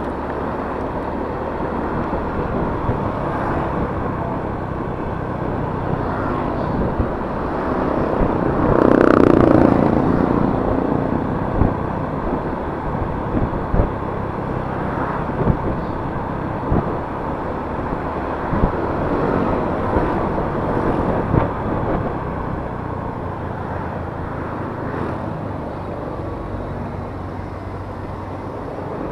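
Yamaha Mio S 125 cc scooter running at riding speed, its engine hum mixed with wind and road noise. A louder swell with a falling pitch comes about nine seconds in, followed by a few short knocks.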